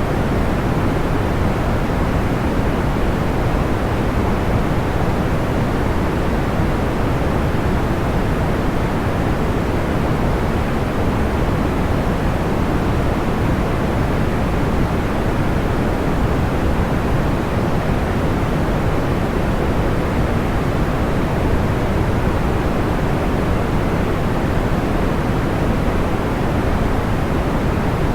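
Steady, even rushing noise, deep and strongest in the low and middle range, fading toward the top: a pink-noise sleep track, with no separate fire crackles standing out.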